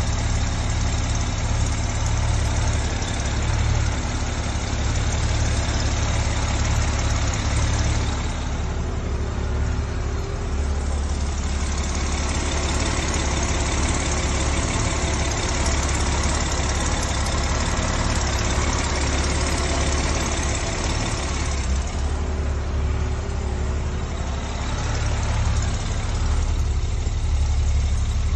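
1970 Mercedes-Benz 280 SL's straight-six engine idling steadily, a low even rumble.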